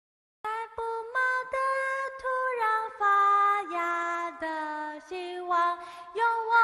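After a moment of silence, a song starts about half a second in: a high voice sings a wordless melody of held notes stepping up and down, over light, evenly spaced taps.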